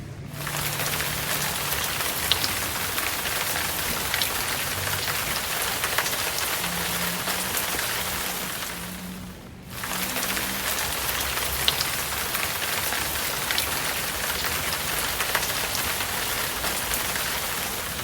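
Steady rain hissing, with scattered sharp ticks of individual drops. The sound dips away for a moment about halfway through and comes straight back, over a faint low hum.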